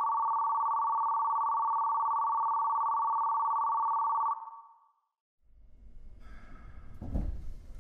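Train departure signal as a sound effect: a steady two-note electronic buzz that stops after about four seconds. After a moment's silence comes a low rumble of the train starting off, with a single thump near the end.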